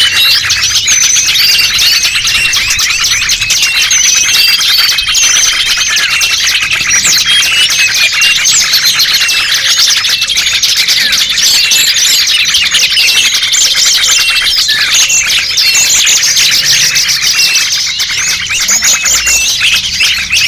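Bird-luring recording of many small songbirds chirping and calling over one another, a dense, continuous jumble of short high twitters and whistles with no break.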